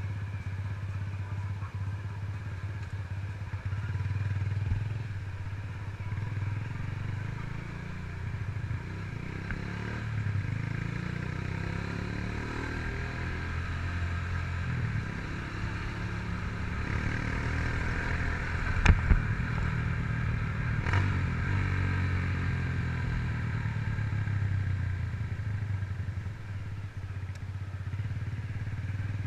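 2007 Honda CG Titan 150's single-cylinder four-stroke engine, fitted with a Fortuna aftermarket exhaust, running under way, its pitch rising and falling as the rider opens and closes the throttle. Two sharp knocks sound about two seconds apart past the middle.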